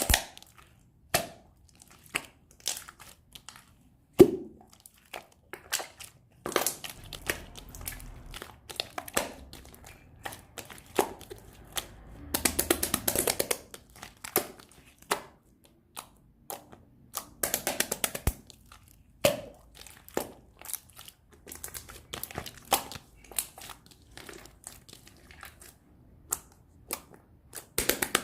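Crinkling and crackling handling noises with many scattered sharp clicks and taps, thickening into longer crackly runs twice in the middle.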